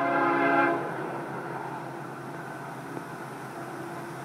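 Diesel locomotive horn sounding a chord, which cuts off under a second in, followed by the steady running of the approaching Florida East Coast Railway train's diesel locomotives.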